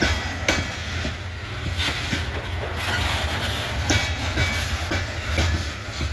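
Freight train cars rolling slowly past, their wheels clacking on the rails at irregular intervals over a steady low rumble.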